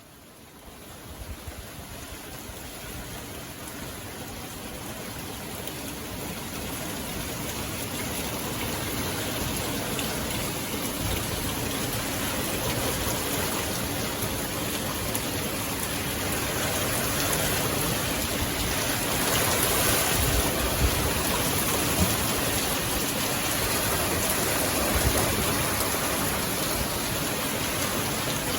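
Steady rainfall, an even hiss of many drops, growing louder over the first several seconds and then holding steady.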